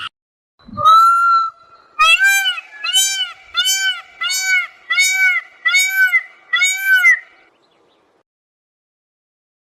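An animal calling: one rising note, then a run of eight even, arched calls about two-thirds of a second apart, which stop about two-thirds of the way through.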